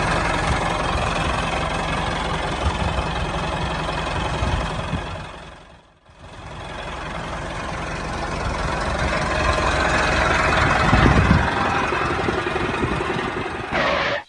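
Engine running, fading away to almost nothing about six seconds in, then coming back and building up, and stopping abruptly near the end.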